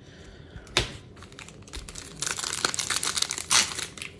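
One sharp click, then from about two seconds in the dense crinkling of a plastic trading-card pack wrapper being handled and opened.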